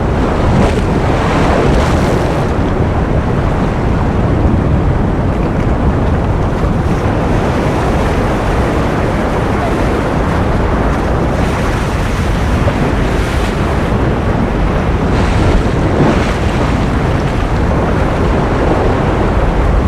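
Ocean surf as a steady rush of waves, with a few gentle swells.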